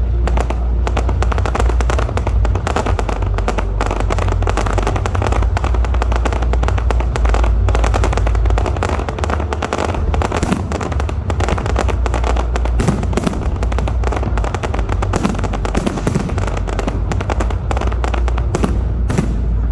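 Fireworks going off in a dense, continuous run of rapid cracks and pops, with a low rumble underneath.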